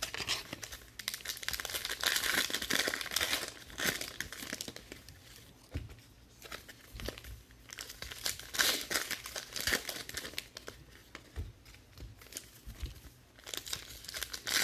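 Trading card pack wrappers being torn open and crinkled by hand, in irregular bursts of crackling with short pauses between.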